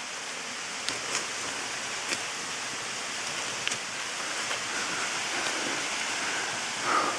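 Waterfall rushing: a steady, even hiss of falling water, with a few light clicks in the first half.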